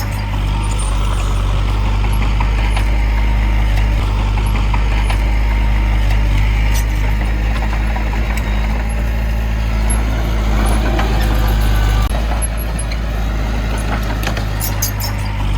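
The heavy diesel engine of earthmoving machinery runs steadily with a deep rumble. A few short clicks come near the start and again near the end.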